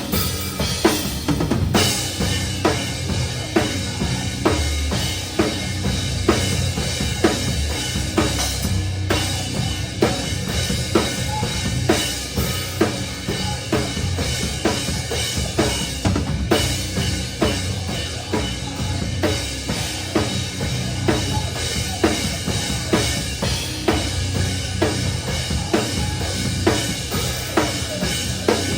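Live metalcore band playing, heard from right at the drum kit: bass drum, snare and cymbals hit loud and steady over the rest of the band.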